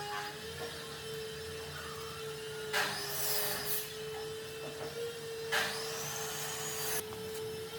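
A woodworking power tool runs in two bursts, each a second or so long, about three seconds in and again about five and a half seconds in. A steady high hum lies underneath throughout.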